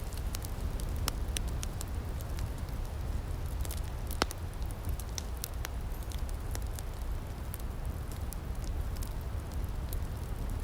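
Outdoor firepit crackling: scattered sharp pops and snaps over a steady low rumble, with one louder pop about four seconds in.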